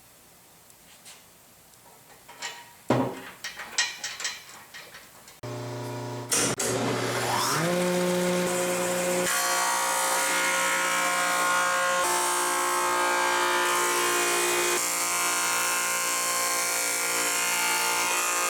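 A few knocks and clicks, then a Yates American J180 wood planer starts: its motor hums and runs up with a rising whine, then settles to a steady run. From about nine seconds in a board is fed through and the cutter head planes it with a steady loud hiss.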